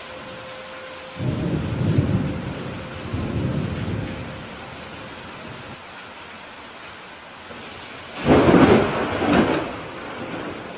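Steady rain with thunder: low rumbles about a second in and again around three seconds, then a loud, sharper thunderclap near the end with a second peak close behind.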